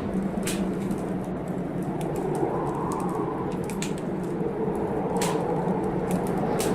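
Wood fire crackling in a fireplace, with irregular sharp pops over a steady rumbling hiss of rain and storm.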